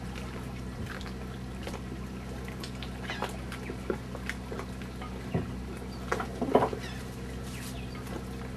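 Scattered small clicks, taps and knocks from objects being handled, over a steady low hum. A louder cluster of knocks comes about six and a half seconds in.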